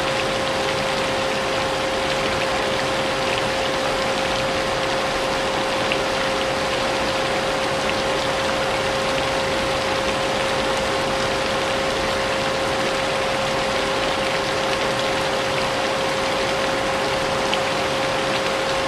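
Vacuum cleaner running steadily with a constant whine, mixed with a continuous hiss of rain.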